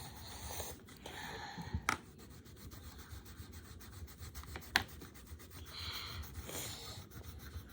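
Coloured pencil rubbing on paper in scratchy strokes of colouring. Two sharp taps of a pencil on the table come about two seconds in and near the five-second mark.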